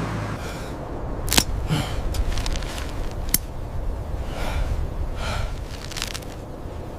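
A low steady rumble with two sharp cracks about two seconds apart, followed later by a few short breathy gasps.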